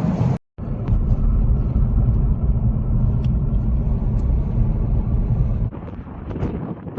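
Car road noise: a steady low rumble, broken by a brief dropout about half a second in, then dropping abruptly to a quieter, windier rumble near the end.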